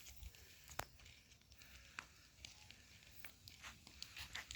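Faint, scattered clicks and crackles, with a sharper click about a second in and a small cluster near the end.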